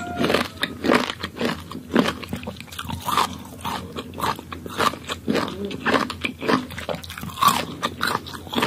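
A person biting into and chewing crisp mango slices close to the microphone: repeated irregular crunches, one or two a second.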